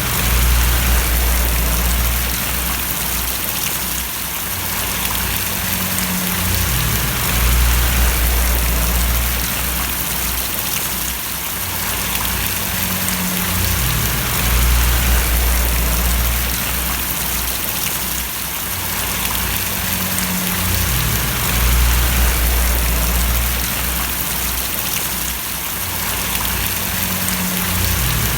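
Steady rain falling and splashing, an even hiss. Underneath it a low rumble swells and fades about every seven seconds.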